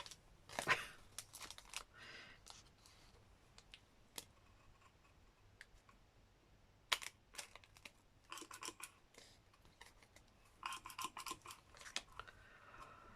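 Hole punch clicking and crunching through paper, with paper handling and rustling between the clicks; the sharpest clicks come about a second in and about seven seconds in, with a busier cluster near the end.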